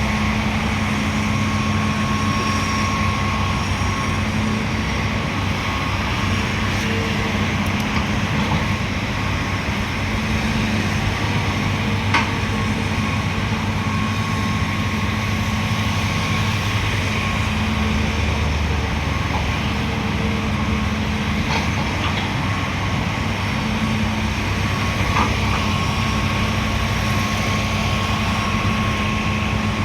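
Heavy diesel earthmoving machinery running steadily, a dump truck or excavator engine with a constant hum and a faint steady whine. A few sharp metallic clanks come through near the middle and later on.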